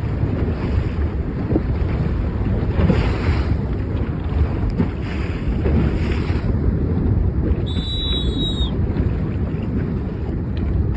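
Strong gusty wind rumbling on the microphone over the steady rush of surf. About eight seconds in, a short high-pitched tone sounds for about a second.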